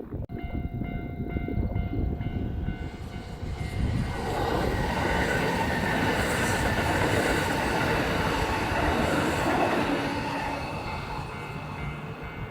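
Kintetsu electric train passing at speed: the rumble and rail noise swell about four seconds in, hold steady, then ease off near the end. A repeating high ringing is heard over the first three seconds.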